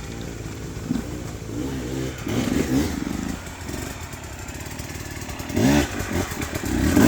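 Enduro dirt bike engine revving in short throttle bursts as the rider works up a rocky climb, the pitch rising sharply with each blip; the loudest burst comes near the end, with some clatter between.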